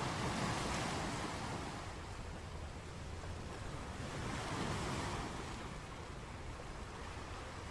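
Sea surf rushing in waves: one swell at the start and another about four to five seconds in, each washing in and ebbing away.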